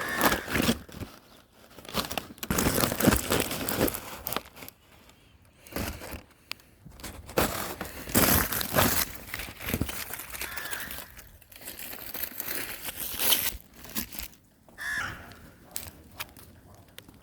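Irregular bursts of crinkling and rustling, with a bird giving a short call three times: at the start, about two-thirds through and near the end.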